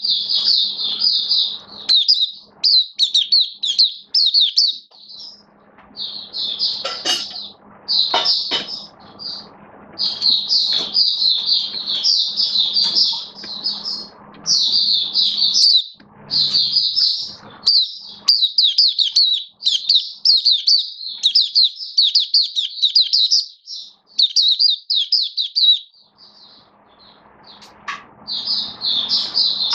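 White-eye (mata puteh) singing long runs of fast, high twittering phrases, with short breaks between runs.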